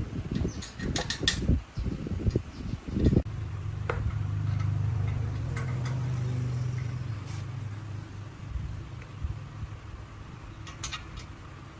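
Old diesel engine chugging unevenly for about three seconds, then running steadily with a low, even hum that swells and slowly eases off.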